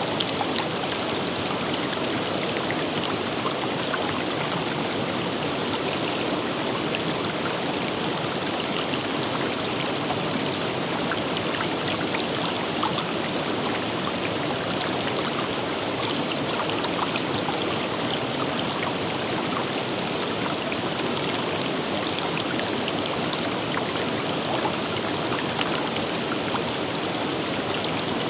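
Forest river flowing steadily over rocks: a constant rushing of water with small splashes and trickles throughout.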